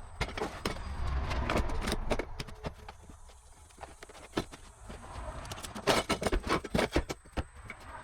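Sharp knocks and clatters of hand work on wood during demolition, ending in a quick run of loud strikes near the end.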